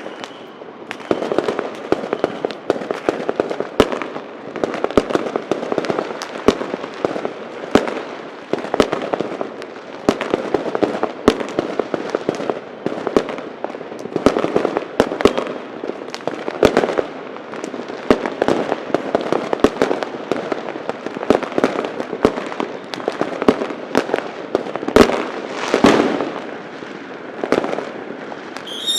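Many fireworks and firecrackers going off at once: a dense, unbroken run of sharp bangs over continuous crackling.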